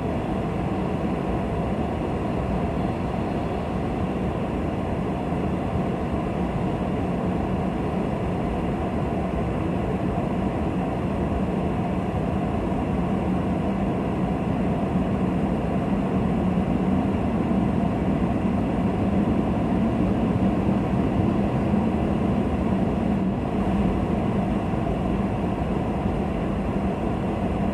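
Boeing 777 freighter's twin GE90 turbofan engines with a steady jet roar that swells a little about two thirds of the way through.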